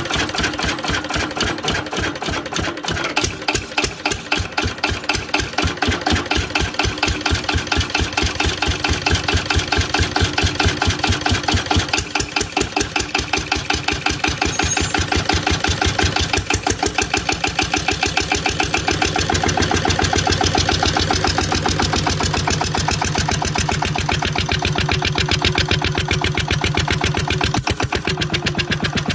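Cunewalde 1H65 single-cylinder stationary engine running at a steady low speed through a stainless-steel exhaust, each firing stroke heard as a distinct pulse. The beat slows and stumbles briefly a few seconds in, then evens out, and grows deeper in the second half.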